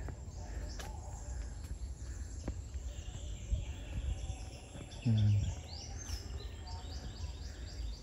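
Outdoor ambience with a steady low rumble; about six seconds in a bird gives a rising-and-falling chirp, followed by a run of short, quick chirps. A brief voice is heard about five seconds in.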